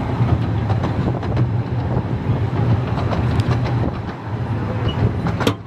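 Moving Ravenglass and Eskdale Railway narrow-gauge carriage rumbling steadily along the track, heard on board, with a few sharp clicks from the wheels and rails.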